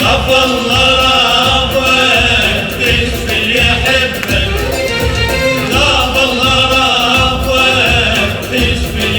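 Live music: voices singing over a steady rhythm of hand percussion.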